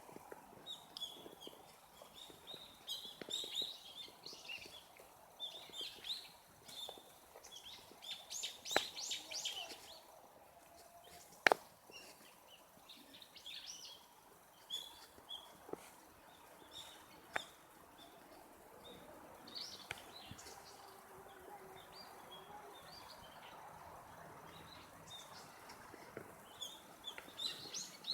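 Small songbirds chirping and twittering in short, high calls, busiest in the first third and again near the end. There is one sharp click about eleven seconds in.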